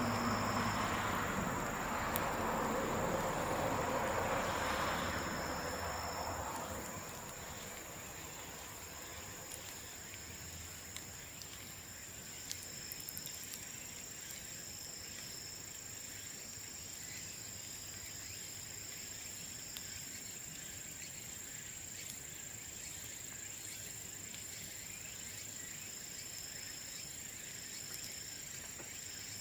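Insects trilling steadily and high-pitched, with a second, shorter chirping call that comes and goes. A louder rushing noise fills the first six seconds or so and then dies away, and a few faint clicks come through.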